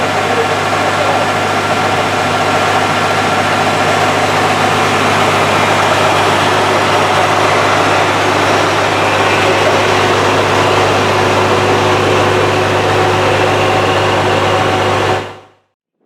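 Isuzu FVZ dump truck's diesel engine running steadily at idle, a constant loud hum; the sound cuts off abruptly about fifteen seconds in.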